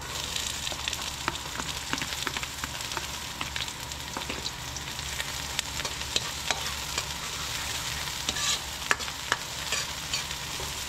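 Chopped garlic, onion and ginger sizzling as they hit hot cooking oil in a kawali (wok-style pan), with many scattered pops and clicks over a steady frying hiss. The sizzle starts suddenly as the aromatics go into the oil.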